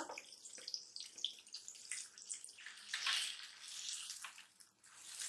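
Chicken masala sizzling in hot oil in a karahi, with a swell of sizzling about three seconds in as chopped tomatoes go in, and a few light clicks.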